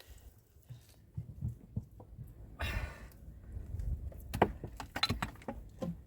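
A series of irregular clicks and knocks with a short rustle near the middle, over a low rumble: things being handled and set down.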